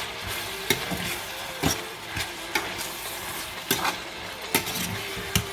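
Vegetables sizzling in hot oil while a spoon stirs them, knocking against the pot about once a second.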